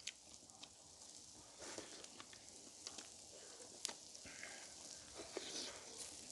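Faint sizzling of pork grilling on fire-heated river pebbles, with a few small scattered clicks and crackles.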